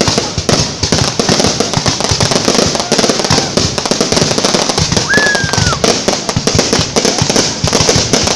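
Fireworks going off in a rapid, unbroken barrage of bangs and crackles. A short whistle that drops slightly in pitch cuts through a little past five seconds in.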